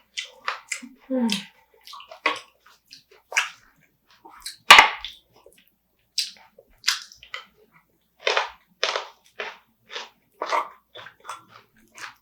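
Close-miked wet eating sounds of spicy marinated raw crab: irregular slurps, sucks and crunches of crab shell, with one loud sharp crack about five seconds in.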